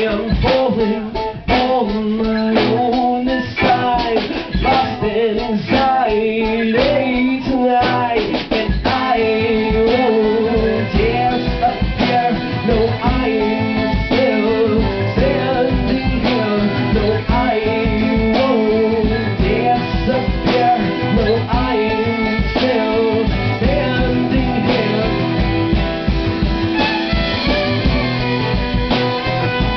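A band playing a song on guitar and drum kit, with no words sung.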